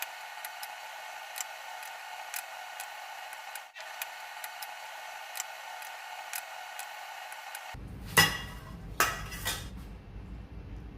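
Kitchen utensils clinking against a dish: scattered light clicks over a steady hum, then a couple of louder clatters about eight and nine seconds in.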